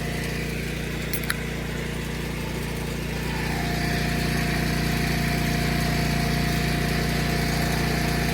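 Portable welding generator's small engine running steadily, getting a little louder about three and a half seconds in, with a brief click a little over a second in.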